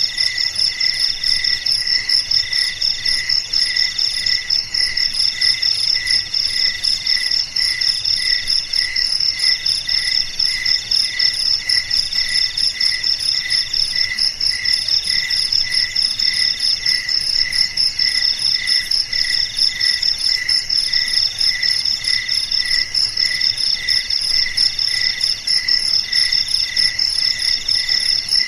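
A chorus of crickets chirping together. Several rapid pulsing trills at different pitches overlap, with one voice in longer pulses of about a second each.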